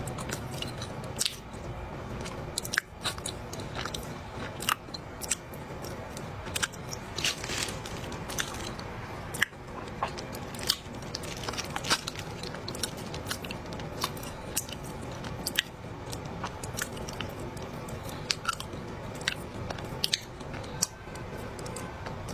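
Close-up chewing of a mouthful of dry clay: irregular sharp crunches and cracks over a steady chewing noise.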